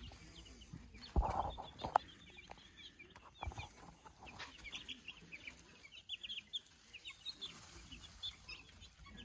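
A brooder full of day-old meat-bird chicks peeping, many short high chirps overlapping throughout. A couple of sharp knocks about one and two seconds in.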